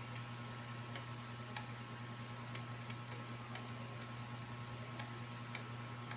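Faint, irregularly spaced light clicks, about nine of them, over a steady low electrical hum.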